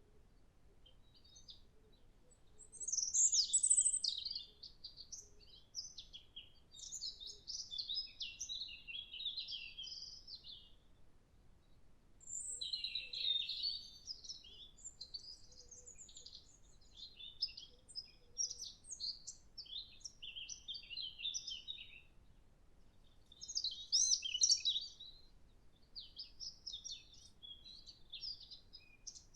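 European robin singing: a series of high, thin, warbling phrases separated by short pauses, two of them noticeably louder than the rest.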